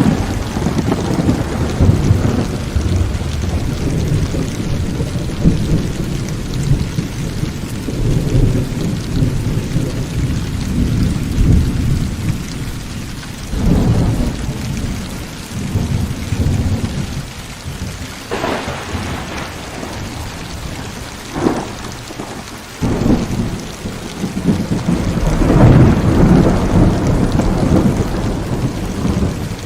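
Heavy rain falling steadily through a thunderstorm, with rolling low thunder that comes and goes in waves, two sharper cracks past the middle, and a loud rumble building near the end.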